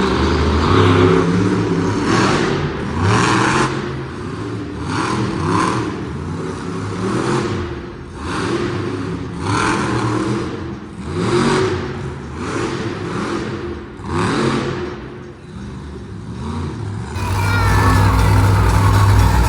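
Monster truck engine revving hard in repeated bursts, its pitch rising and falling; the sound changes abruptly to a steadier low drone near the end.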